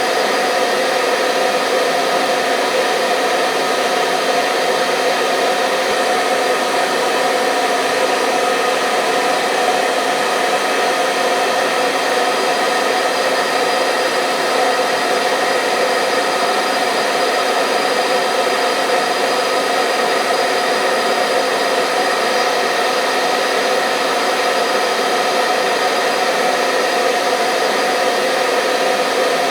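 Hair dryer running steadily on one setting: an even motor-and-fan whir with a rushing air hiss, unchanging, used as a sleep sound for babies.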